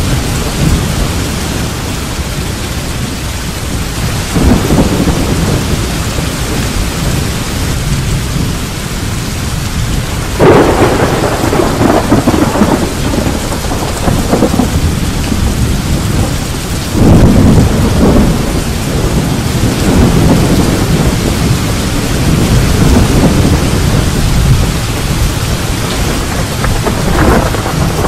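Thunder rolling again and again over steady rain. The loudest rumbles start about ten seconds in and again about seven seconds later.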